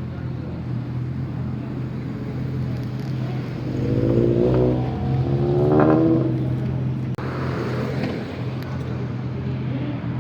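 Car engines running steadily, with one engine revving up briefly about four to six seconds in, its pitch rising and falling; the sound changes abruptly a little after seven seconds.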